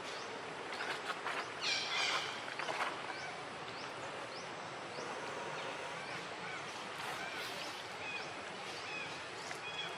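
Outdoor ambience with a steady hiss. About one to three seconds in there is a brief, louder cluster of animal calls, and after that short high chirps repeat several times, like small birds.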